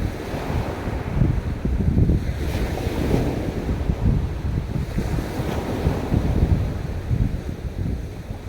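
Waves washing onto a beach, with wind buffeting the microphone; the rumble swells and eases in surges, the strongest a couple of seconds in.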